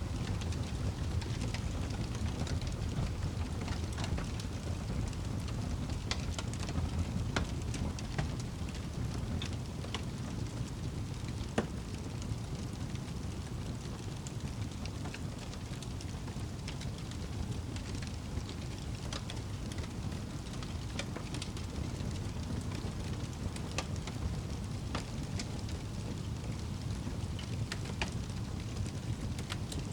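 Campfire crackling, with scattered small pops and one sharper snap about twelve seconds in, over a steady low rumble.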